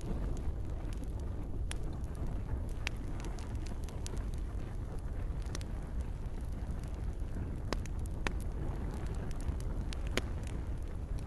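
Campfire crackling, sharp pops and snaps scattered every second or so over a steady low rumble of burning and a soft rain hiss.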